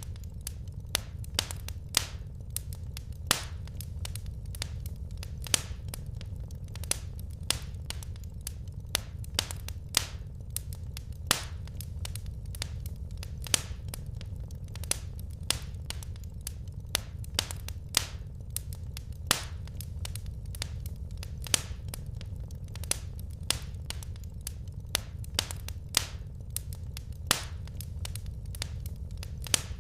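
Wood fire crackling in a fireplace: sharp, irregular pops and snaps, about one or two a second, over a steady low rumble.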